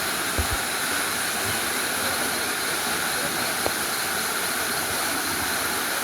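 Waterfall: a steady, even rush of falling water, with a couple of faint knocks early on and near the middle.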